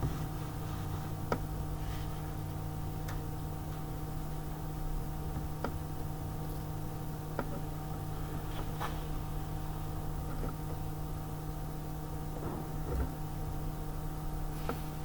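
A steady electrical or machine hum with several fixed pitches, broken by scattered light clicks and taps, about one every second or two, and a short scraping rustle near the end.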